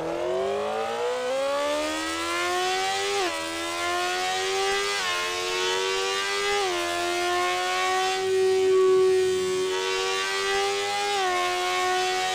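Kawasaki ZX-10R inline-four engine at high revs. Its high-pitched note climbs over the first three seconds, then holds steady, dipping briefly and recovering about four times.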